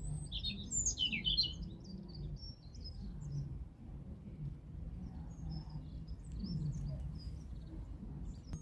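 Small songbirds chirping and twittering, busiest in the first second and a half, then scattered calls, over a low outdoor rumble.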